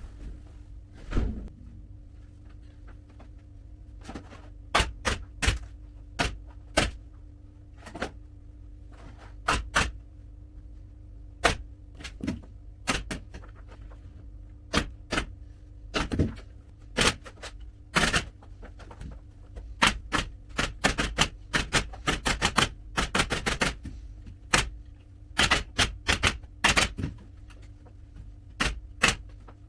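Upholstery staple gun firing staples into a sofa frame: sharp single shots at irregular intervals. They are sparse at first, then come faster from about halfway, with several quick runs of shots in a row.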